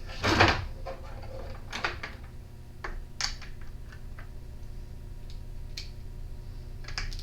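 Scattered small clicks and taps of hand tools and small parts being handled as a trimmer carburetor is taken apart, with a short louder noise near the start, over a steady low hum.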